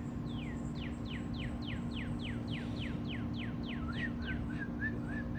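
A songbird whistling a song of clear down-slurred notes repeated about three times a second. Near the end it switches to a run of shorter, lower up-slurred notes. A steady low hum runs underneath.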